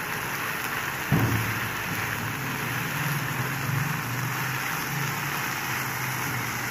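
Shredded cabbage, onion and chicken mince sizzling steadily in a non-stick frying pan as they are stirred with a spatula, with a single knock about a second in.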